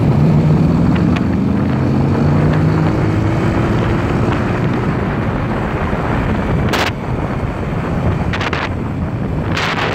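Yamaha YBR125's single-cylinder engine running while riding, its pitch climbing slowly over the first few seconds as the bike accelerates. Wind buffets the microphone throughout, with a few louder gusts near the end.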